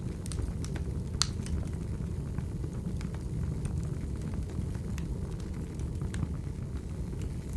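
Wood fire crackling: a steady low rumble of burning logs with scattered sharp pops and snaps, the loudest about a second in.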